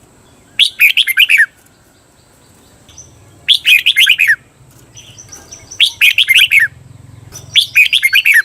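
Red-whiskered bulbul singing: four short phrases of quick, falling whistled notes, each just under a second long and a couple of seconds apart. This is the doubled 'beun' song played to teach caged bulbuls.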